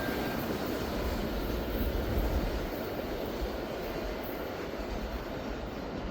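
Freight train's intermodal railcars rolling past on the rails: a steady rumble of wheels on track, gradually getting quieter.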